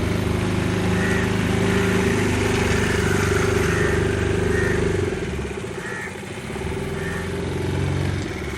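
Motorboat engine running steadily, easing off about five seconds in and picking up again near the end.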